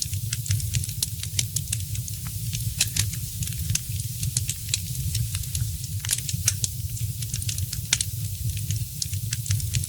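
Fireplace fire crackling: many irregular sharp pops and snaps, a few louder than the rest, over a steady low rumble.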